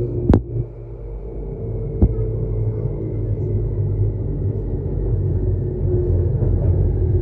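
Bangkok Airport Rail Link electric train running, heard from inside the carriage: a steady low rumble and hum with a faint whine that slowly falls in pitch. Two sharp knocks come through, one near the start and one about two seconds in.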